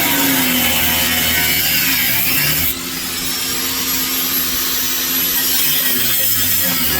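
Angle grinder cutting through metal: a loud, continuous grinding hiss with a high whine. About three seconds in, the whine rises in pitch and the sound drops in level.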